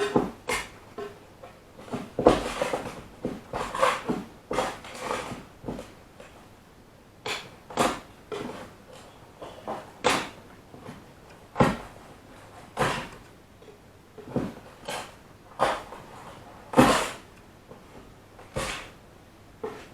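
Irregular clicks, knocks and clatter of small objects being picked up, sorted and set down on a table: spare model railway parts and odds and ends being cleared away.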